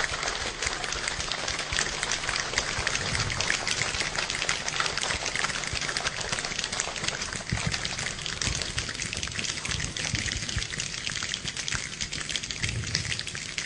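Rain falling steadily: a dense patter of many small drop ticks over a hiss, with an uneven low rumble underneath.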